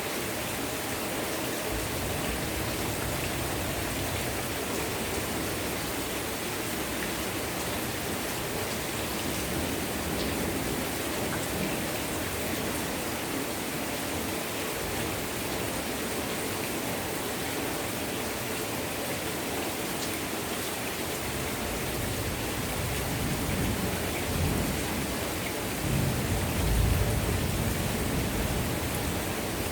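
Heavy rain pouring down as a steady hiss. About two-thirds of the way through, a low rumble of thunder rolls in, swelling twice and loudest near the end.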